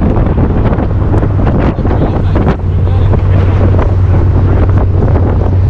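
A car engine running loud with heavy wind buffeting on the microphone and a ragged crackle. About halfway through the engine settles into a steady low drone.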